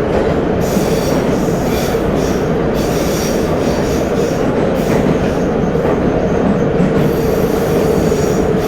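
Metro train running through a tunnel, heard from inside the car: a steady rumble of wheels on rail under a held mid-pitched tone. A high wheel squeal comes and goes several times.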